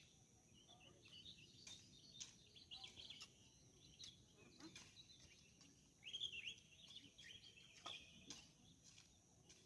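Faint wild birdsong: scattered short chirps and twitters, with a livelier burst of calls about six seconds in, over a steady thin high-pitched tone.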